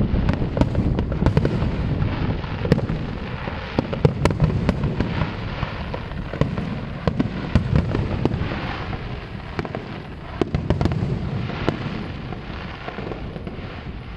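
Fireworks display in full barrage: a continuous rumble of overlapping booms with many sharp cracks on top, easing off slightly toward the end.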